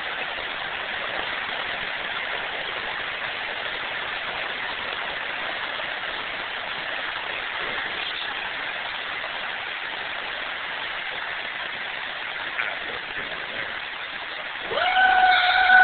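Steady rain falling. Near the end a loud, steady pitched tone with a couple of overtones starts and holds.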